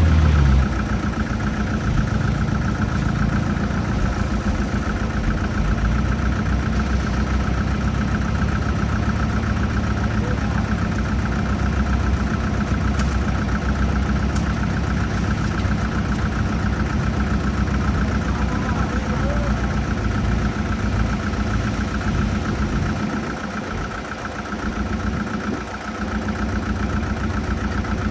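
Diesel engine of heavy earthmoving machinery running steadily under light load, easing off briefly a little before the end.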